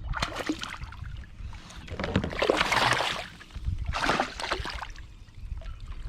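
Water splashing and sloshing in bursts beside a kayak as a hooked bass is fought, the loudest splash about two to three and a half seconds in, over a low rumble.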